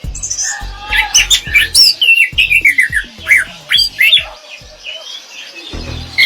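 Orange-headed thrush singing a fast, varied rolling song of quick whistled and chattering notes that sweep up and down, with a short lull about two thirds of the way through.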